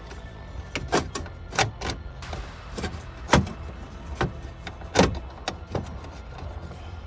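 Sharp clacks and knocks of hard parts and tools being handled while stripping a car's dashboard, about five in a few seconds, with the loudest about a third of the way in and about two-thirds of the way in.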